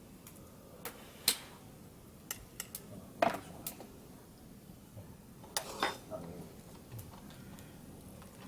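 Eating utensils clinking and knocking against pots and dishes: a dozen or so scattered sharp clicks at irregular intervals.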